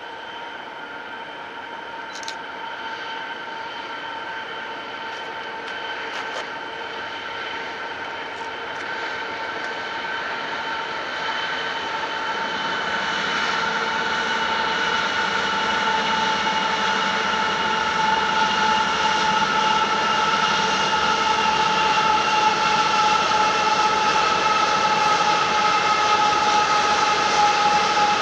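Union Pacific freight train approaching, a steady high whine of several tones that slowly falls in pitch while growing steadily louder.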